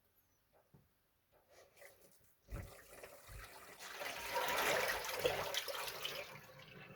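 Water splashing and trickling in a pet frog's bath. It starts with a low thump about two and a half seconds in, is loudest in the middle, and fades near the end.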